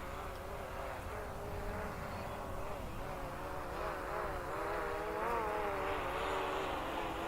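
DJI Mavic Pro quadcopter's propellers buzzing in flight, heard from the ground as a steady hum whose pitch wavers up and down through the middle and grows a little louder toward the end.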